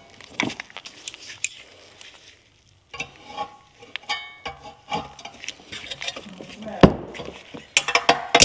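Metal parts and hand tools clinking and clattering as they are handled, with a brief metallic ring a few seconds in and a sharper knock near the end.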